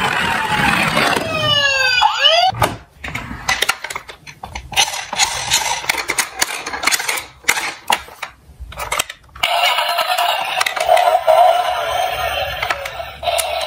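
An emergency-vehicle siren wails for about two seconds. Then comes a run of irregular sharp clicks and clacks of diecast toy cars knocking and rolling. From about nine seconds in, steady background music plays.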